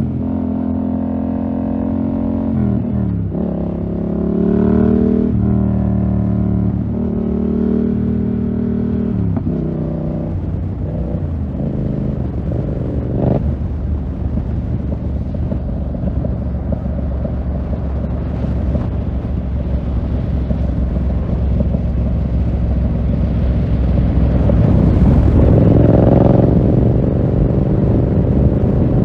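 2020 Yamaha MT-07's parallel-twin engine through a full SC-Project 2-1 exhaust, pulling up through the gears with the pitch rising and dropping at each shift over the first ten seconds. It then settles into a steadier low rumble, with one sharp crack about thirteen seconds in and the revs rising again near the end.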